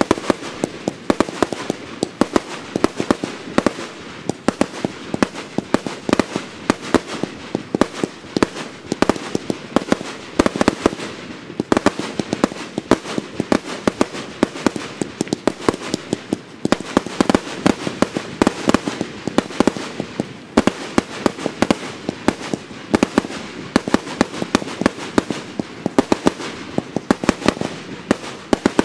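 A 1.2-inch fireworks cake (Zen Fireworks ZFC1606 Silver Blink Willow) firing shot after shot: a rapid, irregular run of sharp reports, several a second, without a break.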